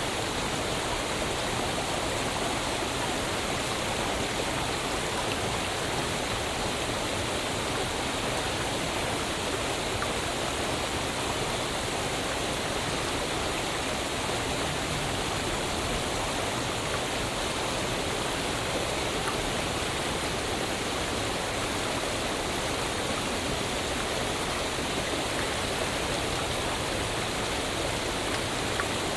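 Waterfall: water falling and splashing in a steady, even rush with no pauses or changes.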